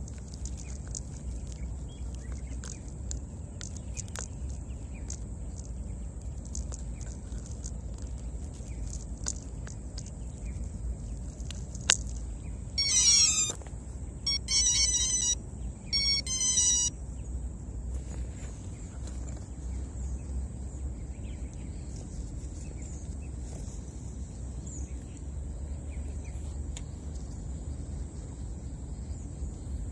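Three short bursts of rapid bird chirping, each about a second long, starting about 13 seconds in, over a steady low rumble and a faint steady high whine.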